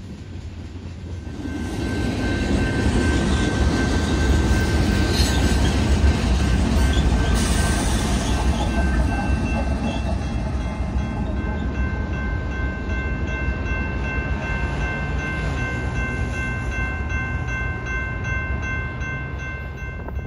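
BNSF freight train with diesel locomotives passing: a steady heavy rumble of engines and rolling cars that swells about a second and a half in. From about nine seconds in, several steady high ringing tones run on top.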